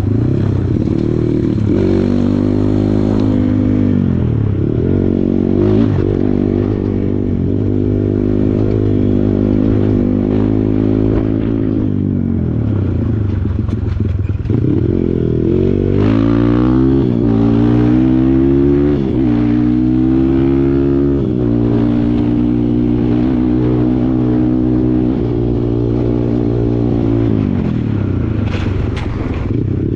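Kawasaki KLX140 dirt bike's single-cylinder four-stroke engine running under load on a trail, its revs rising and falling continually as the throttle is worked. There is a steadier stretch past the middle and a drop in revs near the end.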